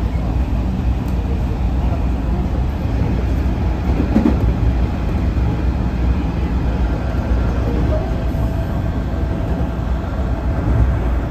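A local electric train running along the line, heard from inside the passenger car as a steady low rumble. There is a brief knock about four seconds in, and a faint steady whine comes in at about eight seconds.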